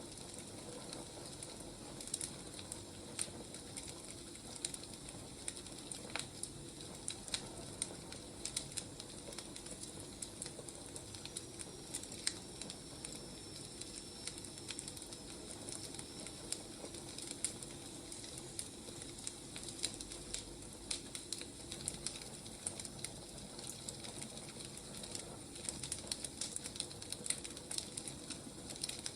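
Firewood burning, crackling with irregular sharp pops and snaps over a steady low hiss.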